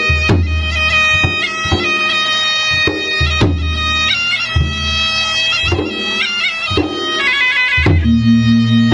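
Traditional Maros gendang drums beaten in deep, repeated strokes under a shrill reed pipe playing a held, trilling melody. A lower sustained note joins near the end.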